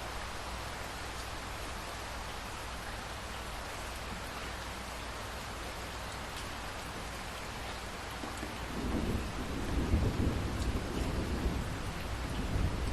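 Steady rain falling. About two-thirds of the way in, a low rumble of thunder swells in and keeps rolling under the rain.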